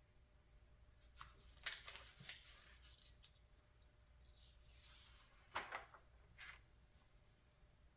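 Paper catalog pages being handled and turned: faint papery rustles and soft flicks. There is a cluster about two seconds in, a swish near the middle, and sharper flicks at about five and a half and six and a half seconds in.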